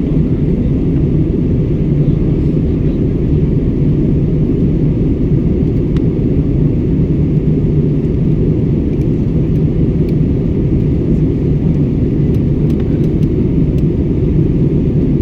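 Steady engine and air noise inside an airliner's cabin in flight: a deep, even drone with a low hum underneath.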